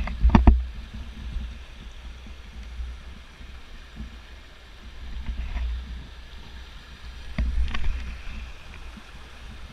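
Low rumble of wind and handling noise on an action camera's microphone, with a few sharp knocks near the start and again about seven and a half seconds in.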